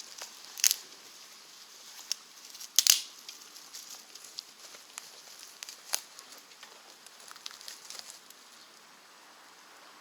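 Wood fire burning in a rocket stove, crackling with irregular sharp pops, the loudest about three seconds in.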